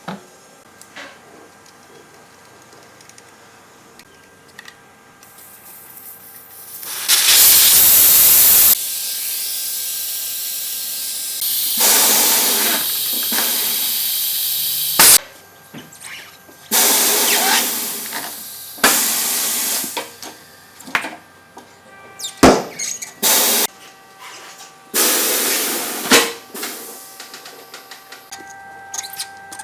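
Compressed air hissing in repeated bursts of a few seconds each, starting and stopping abruptly, as used in tyre repair, with clicks and knocks between the bursts. The loudest burst comes about seven seconds in.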